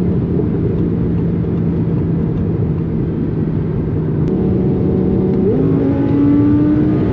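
Twin-turbo Audi R8 V10 engine running at steady speed under a heavy rush of road and wind noise. About five and a half seconds in, its pitch steps up as it drops a gear, then rises slowly as the car pulls.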